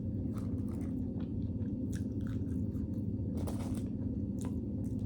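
A person chewing and biting food close to the microphone, with scattered small crunchy clicks over a steady low hum.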